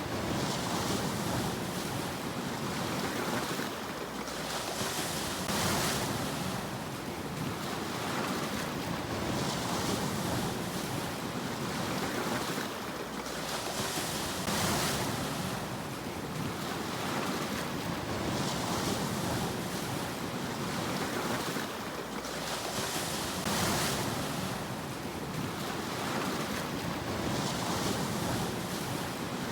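Sea waves washing onto a shore, a continuous surf hiss that swells with each wave about every four to five seconds.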